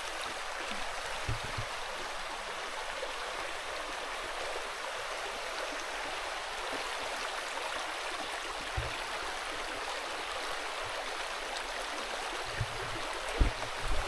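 Steady rush of flowing water, like a jungle stream, with a few soft low thumps.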